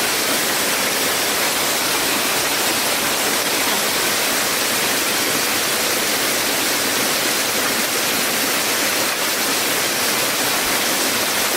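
Steady rushing of flowing water, an even continuous wash with no breaks.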